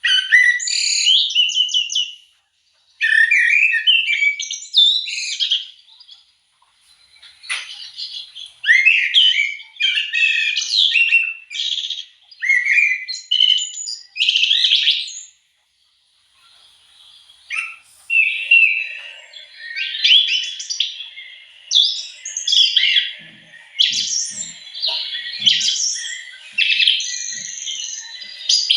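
A songbird singing: rapid, varied phrases of chirps, trills and whistles, each lasting one to two seconds, with short pauses between them.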